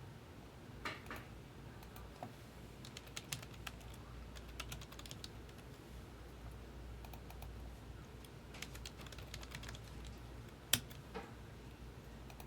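Typing on a computer keyboard: scattered runs of keystrokes with pauses between them.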